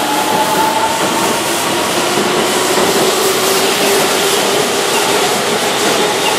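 Keihan electric commuter train running past along the platform: steady wheel and running noise on the rails, with a faint motor whine held at a steady pitch.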